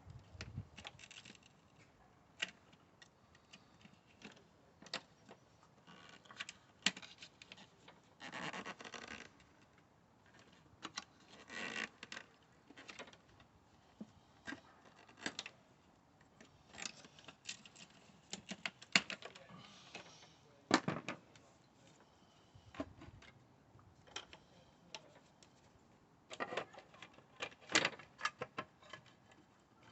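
Irregular clicks, light taps and short scrapes of hands and tools handling plastic and metal parts in a car's engine bay, as the cam cover is worked loose. The clicks come thicker in two spells, in the second half and again near the end.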